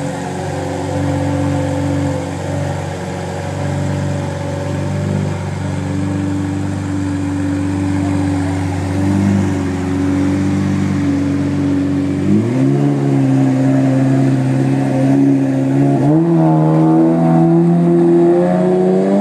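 Straight-piped Lamborghini Murciélago LP640's V12 running with a steady low note, then its pitch steps up about two-thirds of the way through, steps up again a few seconds later and climbs near the end as the car pulls away.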